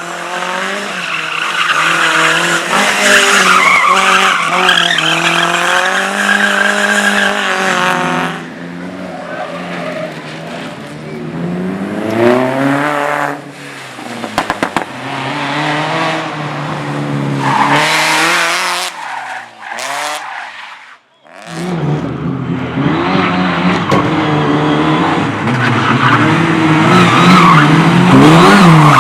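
Race cars on a slalom course, their engines repeatedly revving up and easing off through gear changes and corners, with tyre squeal. The sound drops out briefly about three-quarters of the way through, then another car comes in loud and revving.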